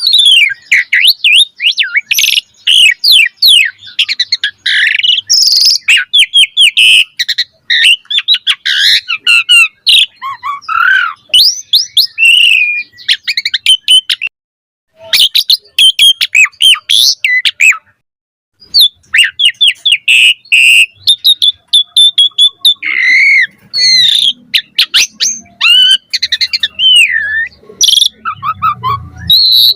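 Asian pied starling singing a fast, varied song of chirps, whistles and gliding notes, broken by two short silent gaps near the middle.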